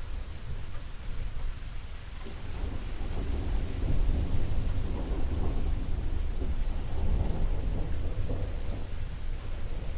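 Steady rain falling, with a low rumble of thunder that swells up through the middle and eases off near the end.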